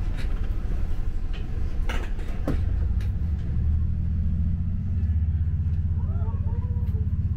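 Low engine and running rumble heard inside a passenger train carriage as the train pulls away from the platform, growing stronger and steadier about three and a half seconds in. A couple of sharp knocks come around two seconds in.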